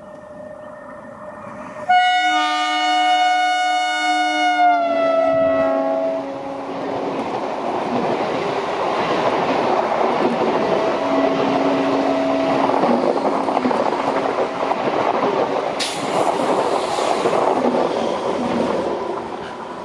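Train horn sounding a loud chord about two seconds in, its pitch dropping as the locomotive passes. The coaches then rush past at speed with wheel clatter, and a brief second horn note sounds midway, before the rumble fades near the end.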